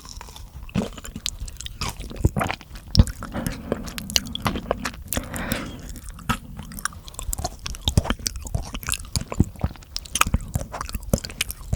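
Close-miked ASMR mouth sounds: a rapid, irregular stream of wet clicks, smacks and crunchy, chewing-like noises.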